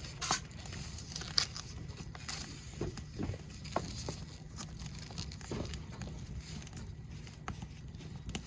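Wood fire crackling under a cast-iron griddle lid, with sharp pops at irregular intervals over a steady low rumble.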